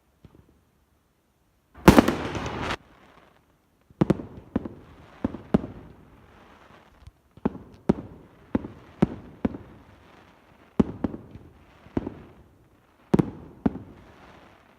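Fireworks display: a loud rushing burst lasting about a second, then a string of sharp echoing bangs from bursting shells, about fifteen of them, one or two a second.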